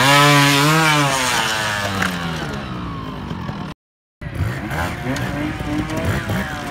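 Trials motorcycle engine revved hard, its pitch rising then falling away over about three seconds as the bike climbs over rocks. After a sudden short break, a second trials bike's engine blips and drops back with some clatter.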